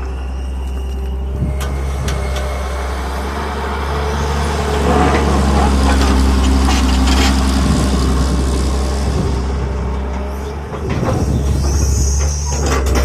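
Excavator diesel engine running under working load, louder from about four seconds in, with scattered knocks and scrapes of the bucket against rock.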